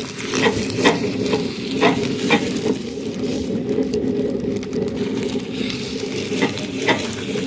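Electric meat grinder motor running steadily, with irregular sharp cracks and crunches as popcorn is crushed in the auger.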